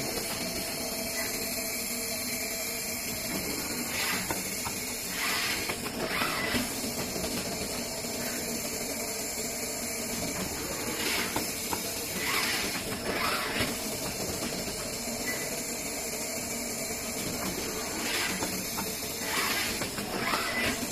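Automatic FPC screen printing line running: a steady machine hum with short hisses of air every few seconds, in clusters of two or three, alongside light mechanical clatter.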